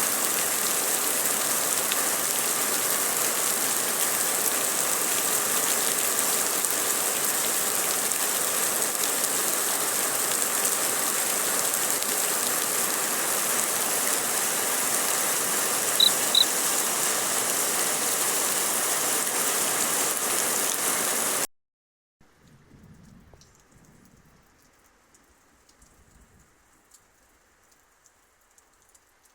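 Heavy rain mixed with hail pelting down in a steady, dense hiss, with two sharp ticks about sixteen seconds in. It cuts off suddenly about two-thirds of the way through, leaving near silence.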